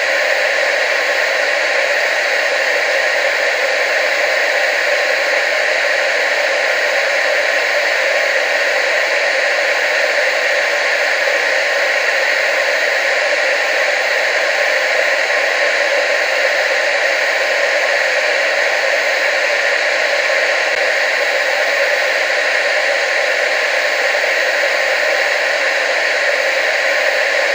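Television static: a steady, unbroken hiss, strongest in the middle and upper range, with almost no low rumble.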